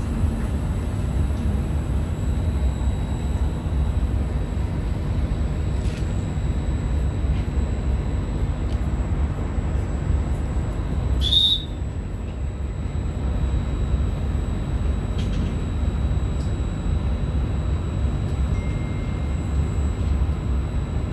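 Steady low hum and rumble inside the carriage of a Trenitalia regional train standing at a station platform, its onboard equipment running. About halfway through, a brief high-pitched beep sounds, and the rumble then becomes slightly quieter.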